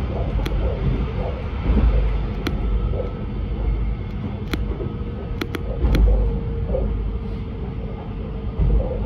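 Inside an X'Trapolis electric suburban train running at speed: a steady low rumble of wheels on rail with a faint steady hum, broken by scattered sharp clicks.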